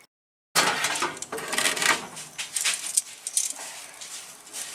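Wood fire in a fire pit crackling and popping, with irregular sharp snaps, following a half-second dropout at the very start.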